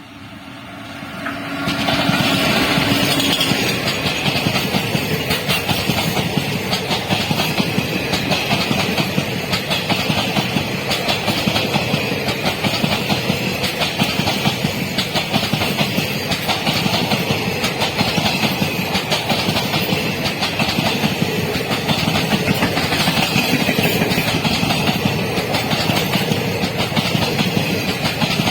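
Indian Railways train passing close by, its wheels rolling over the rail joints in a steady clickety-clack. The sound swells up in the first two seconds, then stays loud.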